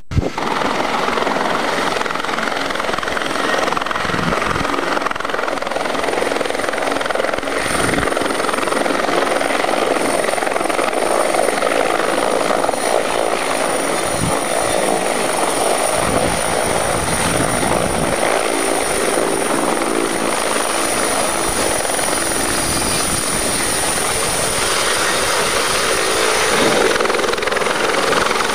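Aérospatiale AS365N1 Dauphin twin-turboshaft helicopter running, a steady loud rush of rotor and turbine noise with a thin high-pitched whine held throughout, broken by a few brief low thumps.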